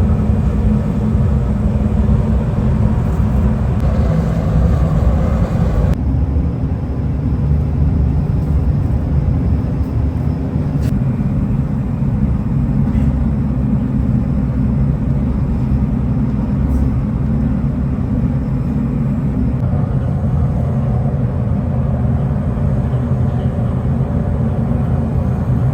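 Steady low rumble of heavy factory machinery running, its sound changing abruptly about six seconds in.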